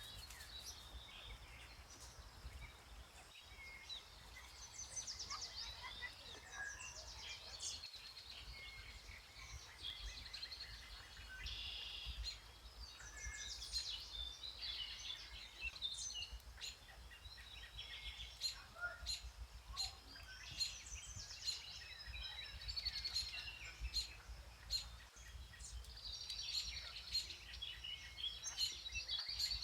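Several woodland songbirds singing, with overlapping trills and chirps, over a low steady outdoor rumble.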